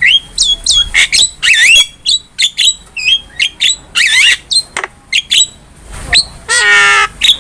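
Javan myna (jalak kebo) singing vigorously in a rapid run of short whistles, squawks and chirps. Near the end comes one longer, harsh call that slides down in pitch.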